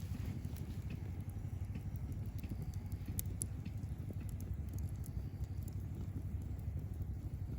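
Campfire burning, with scattered sharp crackles and pops of the wood at irregular moments over a low steady rumble.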